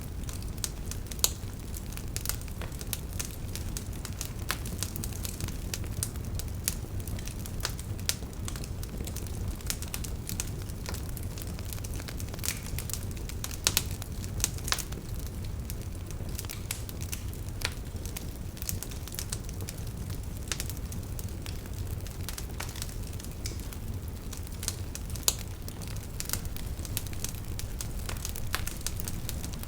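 Wood fire burning in a fireplace: a steady low rumble of flames with irregular crackles and a few louder pops.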